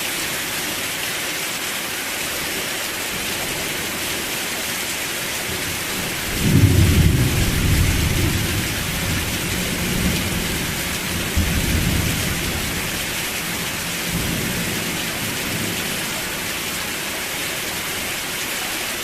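Steady rain hiss, with a rumble of thunder that breaks in about six seconds in, swells again a few seconds later and fades away.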